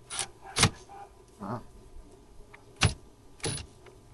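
Several separate sharp clicks and knocks, about five in four seconds, from tools and parts being handled during car repair work.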